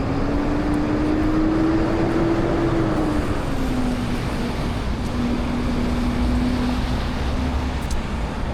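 Downtown street traffic with a passing vehicle's engine hum that rises slightly in pitch, then drops about three seconds in and holds steady.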